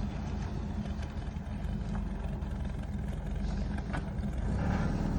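Mazda B2200 mini truck's engine idling with a steady low rumble, and a single sharp click about four seconds in.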